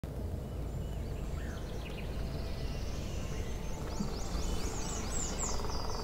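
Steady low outdoor rumble, with a bird calling in quick, repeated high chirps that fall in pitch from about halfway through.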